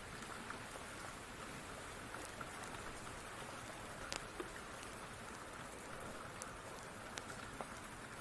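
Steady rain falling, with scattered sharp clicks and pops over it, the loudest about four and seven seconds in.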